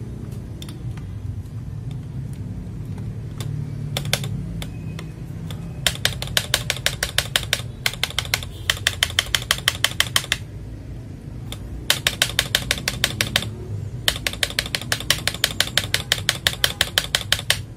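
Fast typing on a mechanical keyboard: a few separate key presses, then four runs of rapid keystrokes at about ten clicks a second.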